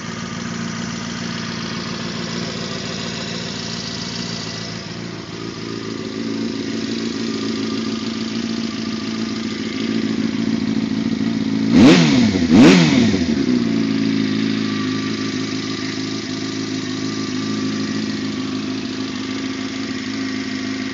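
2007 Yamaha YZF-R6S inline-four engine with a Termignoni slip-on exhaust idling steadily. A little past halfway the throttle is blipped twice in quick succession, each rev rising and dropping sharply, before the engine settles back to idle.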